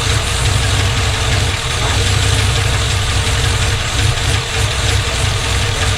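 Freshly swapped Chevrolet 5.3-litre LS V8 idling steadily, a low pulsing exhaust rumble under a constant hiss-like haze, which the owner takes for header noise.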